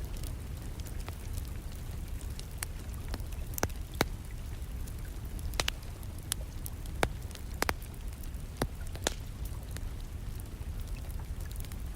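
Wood fire crackling in a fireplace, with irregular sharp pops and snaps, over a steady background of rain.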